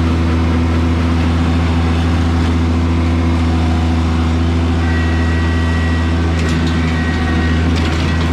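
Kubota BX2200 compact tractor's three-cylinder diesel engine running steadily, with a faint high whine coming in about five seconds in.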